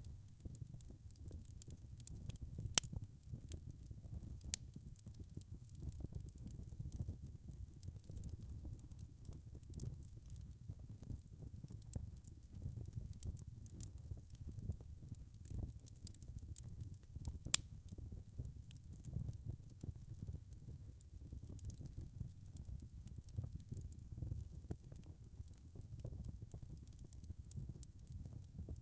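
Wood fire burning with a low rumble and scattered soft crackles, with two sharper pops, about three seconds in and near the middle.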